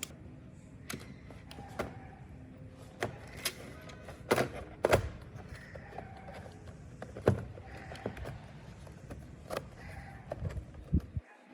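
Small plastic and metal parts being handled and fitted: a dozen or so separate clicks and knocks at irregular intervals, the loudest a little past the middle.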